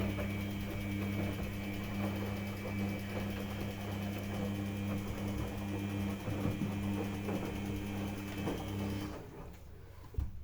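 Samsung washing machine's motor running with a steady hum and a high whine, cutting off abruptly about nine seconds in.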